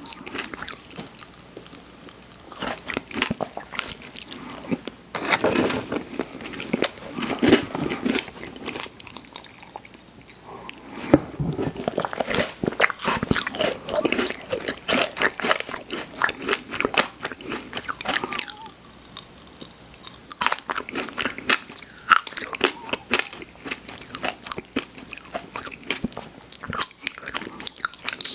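Close-miked crunching and chewing of crisp cookies: dense, crackling bites and chews with brief pauses between mouthfuls.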